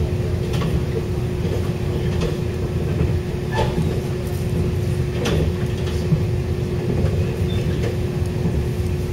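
Inside a moving passenger train: a steady low rumble of the train running on the rails under a constant hum, with a sharp click every second or two.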